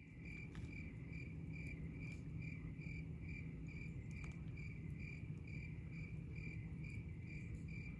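A cricket chirping in a steady rhythm, about two high chirps a second, over a low steady rumble.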